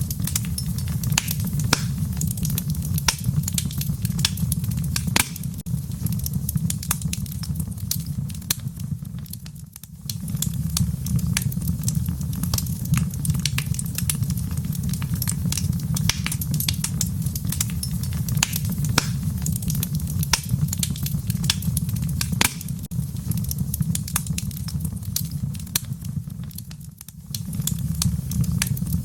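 Wood fire crackling in a fireplace: frequent sharp pops and snaps over a steady low rumble of the flames. The rumble drops away briefly twice.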